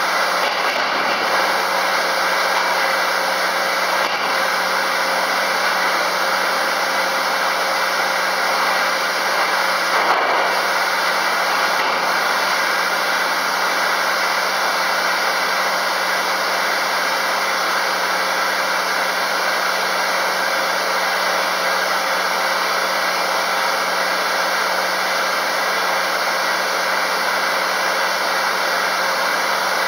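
FKD 500 double arbor circular saw running steadily, a constant whirring motor-and-blade noise with a few fixed tones in it, briefly louder about ten seconds in.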